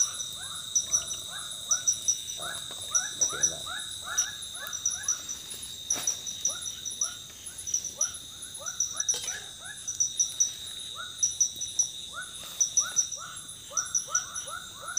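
Tropical forest animal chorus: a steady high insect drone with regular groups of short cricket-like chirps, over runs of short falling animal calls repeated several times a second.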